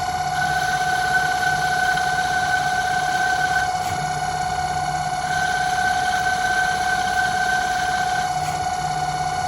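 Home-built CNC lathe running a cutting test: a steady high-pitched whine. A higher tone and a low hum switch in and out every few seconds.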